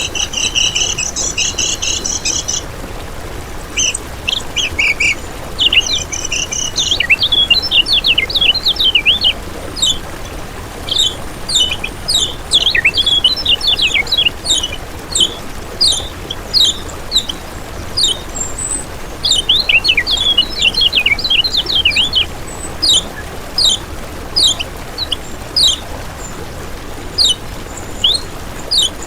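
Kecial kuning songbird singing: a buzzy, trilled phrase in the first few seconds, then long runs of quick, high chirps and sharp down-slurred notes in bursts.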